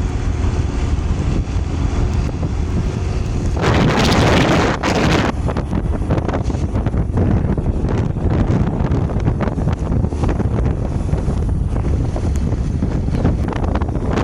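Gravel-sized stones raining down, a dense patter of many small hits over a rushing noise that includes wind buffeting the microphone. A louder rush of noise starts about three and a half seconds in and lasts over a second.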